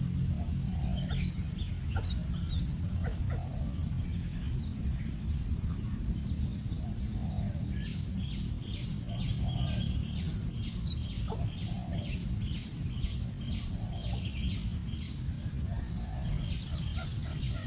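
Birds calling: a short low call repeated roughly once a second and runs of high chirps. A fast pulsing high trill runs from about two to eight seconds in. Underneath is a steady low rumble.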